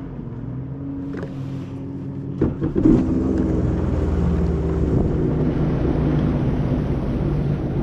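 Jet ski engine running steadily, with a few knocks about two and a half seconds in, after which it gets louder, with more hiss from water and wind.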